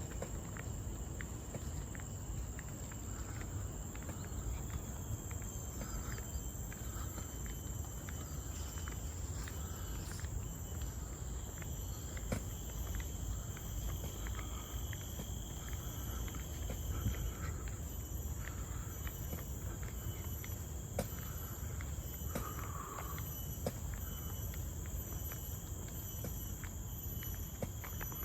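A steady insect chorus made of several high, unbroken tones, with scattered light clicks of footsteps on the trail.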